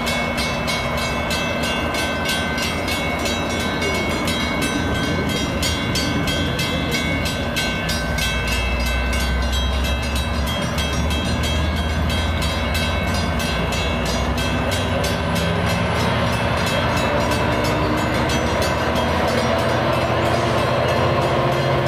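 Metra commuter train passing, its wheels clicking rapidly and evenly over the rail joints. Near the end a low engine tone grows, as the diesel locomotive end draws near.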